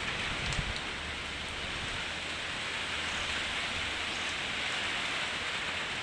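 Steady heavy rain falling, an even hiss with a few faint drips.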